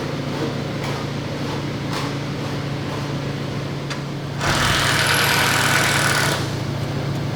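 An engine idling steadily, with a loud burst of dense mechanical noise lasting about two seconds just past the middle.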